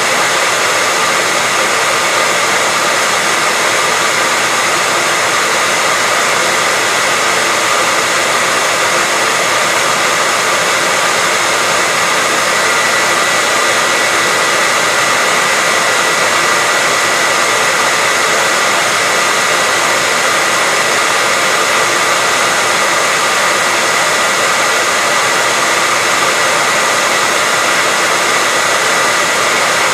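Hair dryer running steadily: an even, constant rushing blow with a faint steady whine in it.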